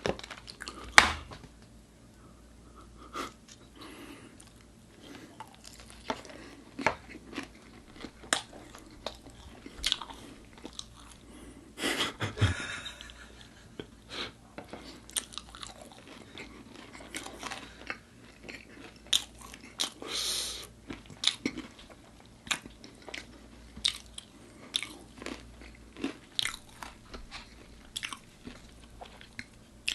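Close-miked eating of crispy-coated chicken: sharp crunchy bites and chewing, with many short crackles and two longer spells of crunching about twelve and twenty seconds in.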